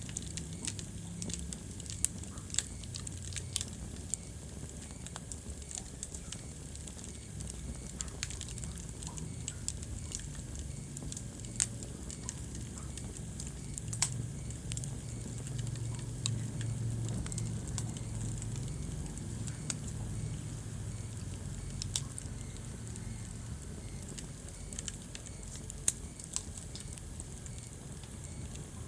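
Wood fire crackling in a fireplace: irregular sharp pops and snaps, a few louder ones spaced several seconds apart, over a steady low rumble of the flames.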